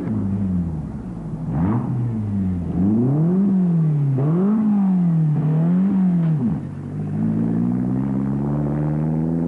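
Off-road race vehicle's engine revving up and down repeatedly, its pitch rising and falling about once a second as the throttle is worked, then climbing steadily as it accelerates in the last couple of seconds.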